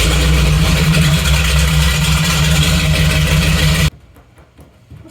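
Electric winch motor running under its push-button controller, a steady loud motor hum with rattling gear noise, stopping abruptly about four seconds in when the button is released.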